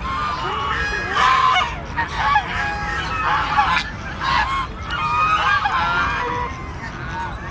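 Several ducks quacking and calling at once, short calls overlapping one another in a steady chatter.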